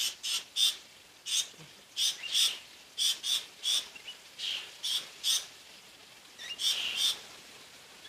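A bird calling with short, sharp notes repeated in quick runs of two to four, with brief pauses between runs.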